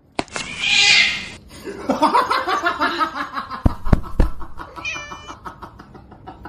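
A kitten play-fighting with a puppy: a hiss in the first second, then a run of squealing mews, with a few sharp thumps about halfway through and a short high mew just after.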